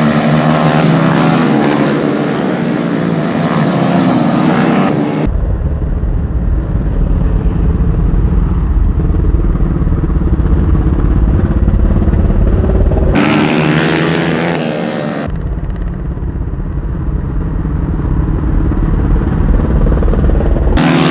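Racing motorcycles revving hard as they pass, their engine pitch rising and falling, at first and again about two-thirds of the way through. In between, a steady low rumble with the engines fainter.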